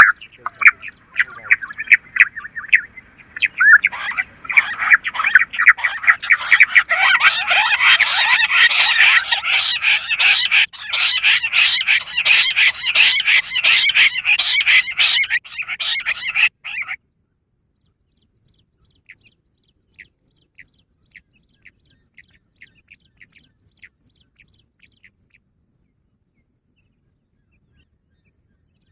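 Bush quail calling: a dense, loud run of rapid high chirping whistles that stops abruptly about seventeen seconds in, followed by a few faint, scattered chirps.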